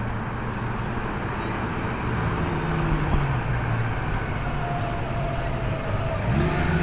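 Car engines running at low speed as cars roll slowly in, a steady low rumble whose pitch rises and falls slightly around the middle.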